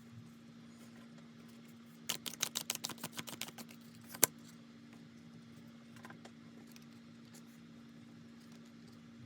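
Tarot cards being handled: a quick run of about fifteen crisp card clicks over a second and a half, then one sharp snap, over a steady low hum.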